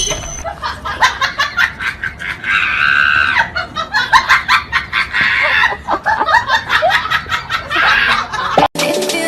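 People laughing, with long high-pitched squeals twice in the middle. Music cuts in near the end.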